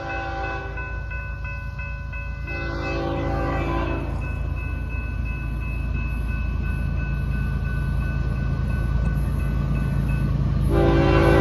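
Air horn of Florida East Coast Railway diesel freight locomotives blowing for a grade crossing as the train approaches. One blast ends just after the start, a second about two and a half seconds in lasts about a second and a half, and a long blast begins near the end. Under the horn is a low engine rumble that grows louder as the train comes closer, with steady high ringing tones until shortly before the last blast.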